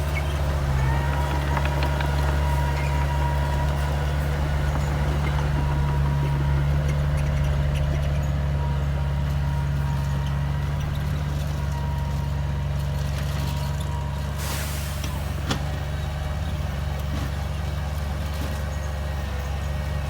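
Komatsu bulldozer's diesel engine running steadily, with a thin steady whine above the low drone and a short hiss about two-thirds of the way in.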